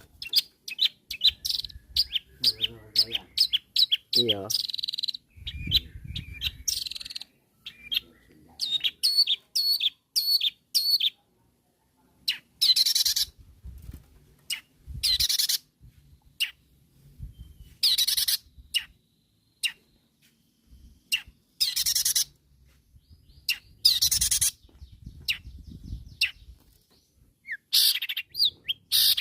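Long-tailed shrike (cendet) singing: a fast run of short, sharp chirps for the first several seconds, then harsh, drawn-out screeching notes every couple of seconds.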